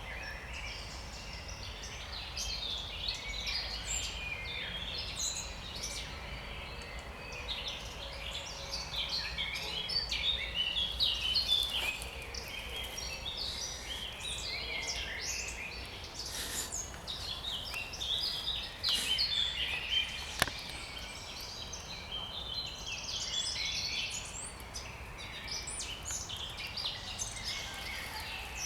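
Several songbirds singing together in a dense spring chorus of overlapping chirps and trilled phrases, over a steady low rumble. A single sharp click sounds about two-thirds of the way through.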